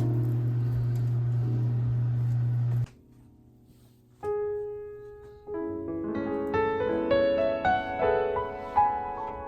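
Background music: a steady low hum under soft music cuts off suddenly about three seconds in, and after a short pause a solo piano begins, single notes building into flowing arpeggios.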